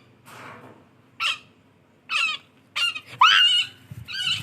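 A bird giving a series of short, harsh calls, about six in all, with a longer one about three seconds in that rises in pitch and then holds steady.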